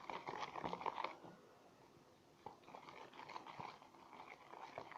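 Homemade glue slime activated with Ariel detergent being worked and stretched, giving runs of quick sticky clicks and squelches, with a quieter pause around the middle.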